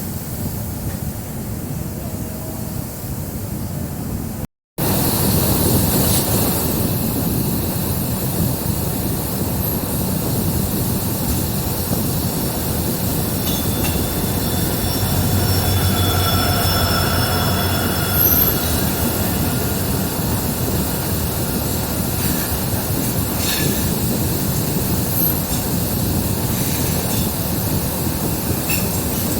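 Diesel-electric multiple unit (DEMU) passenger train running along the track with a steady rumble and rail noise, louder after a break about five seconds in. A high wheel squeal rises for a few seconds about halfway through, and a few sharp clicks come near the end.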